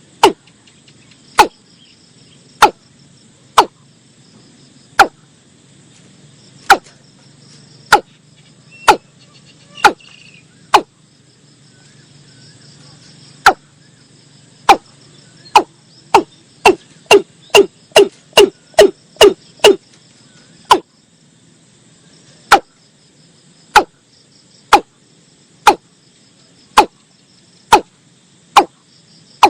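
Watercock (nok i-lum) calling: a series of short, loud notes, each dropping in pitch. The notes come about once a second, run faster to two or three a second a little past the middle, then slow again. A faint insect buzz carries on underneath.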